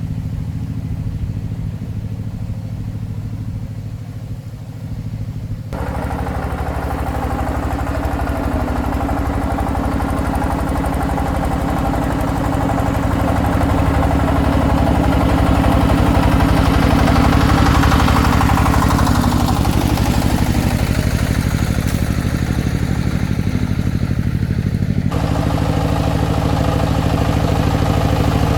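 Single-cylinder diesel engine of a công nông farm tractor-truck running steadily. Its sound changes abruptly twice, and a falling whine comes about two-thirds of the way in.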